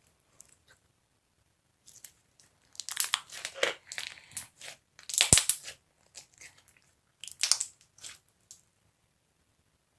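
Slime being squeezed and pressed by hand, giving clusters of wet crackling and popping, with one sharp loud pop about five seconds in.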